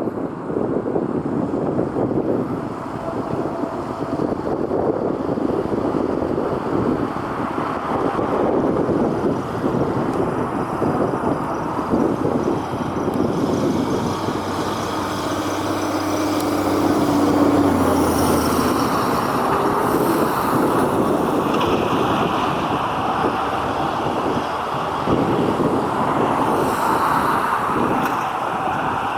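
Steady engine and road rumble with wind on the microphone. A faint high whine rises and falls about halfway through and again near the end.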